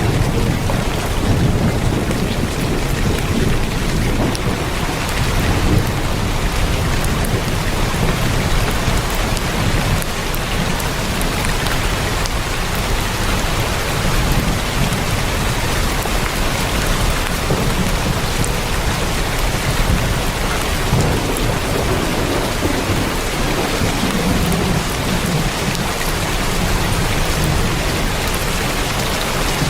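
Heavy rain drumming steadily on a tin roof, a dense unbroken patter, with low rumbles of thunder swelling and fading underneath.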